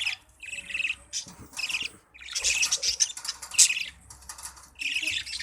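A flock of budgerigars chirping and chattering, several birds at once, in a run of short busy bursts that is loudest about halfway through.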